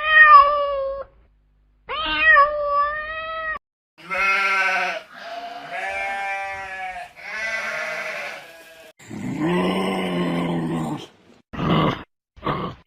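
A string of different animal calls, one clip cut after another: two high, wavering calls near the start, then three longer calls, a lower-pitched call, and two short calls near the end.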